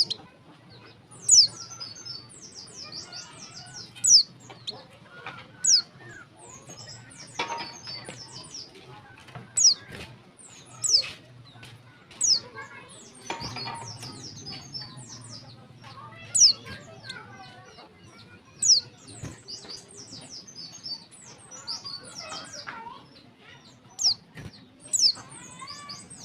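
Female white-eye (pleci) calling: sharp, high, downward-sweeping notes every second or two, with rapid high twittering in between. This is the female's call to males, used as a lure to set male white-eyes singing.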